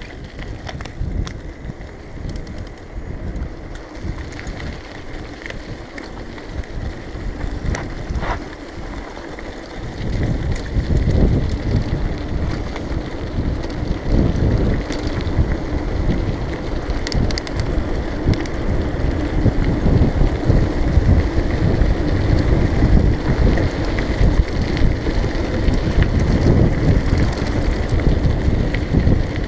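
Riding a B'Twin Rockrider 520 mountain bike: wind buffeting the action camera's microphone over tyre noise and small knocks from the bike. It gets louder about ten seconds in.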